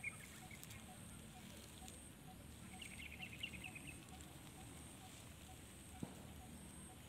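Quiet outdoor ambience with faint bird chirps: a quick run of short high notes at the start and another about three seconds in, plus a single click near the end.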